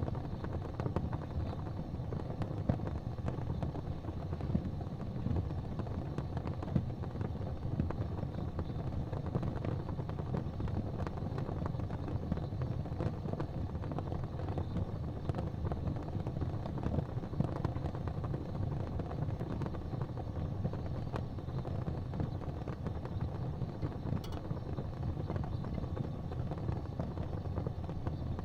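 Wood fire crackling in a fireplace, with frequent small pops and snaps over a steady low rumble.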